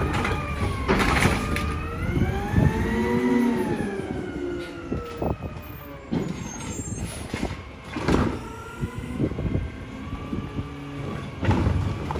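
Battle Motors/Heil Durapack Rapid Rail garbage truck's engine revving up and settling back down, with short bursts of hiss about a second in and again about eight seconds in.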